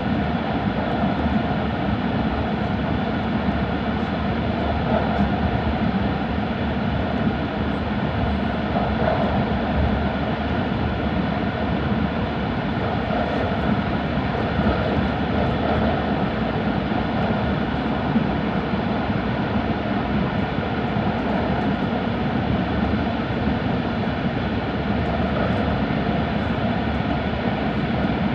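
Steady running noise of an E5 series Shinkansen at speed in the Seikan Tunnel, heard inside the passenger cabin: an even rumble of wheels on rail with rushing air, no change in pitch or level.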